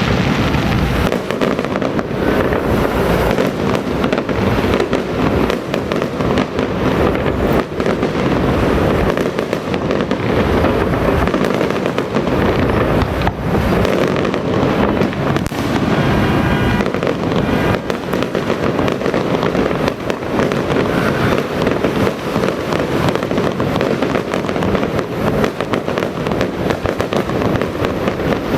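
A dense, unbroken barrage of firecracker bangs, crackling rapidly and continuously at a loud, even level.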